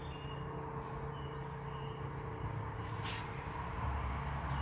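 Steady low background hum and hiss of outdoor ambience, with one short hiss about three seconds in.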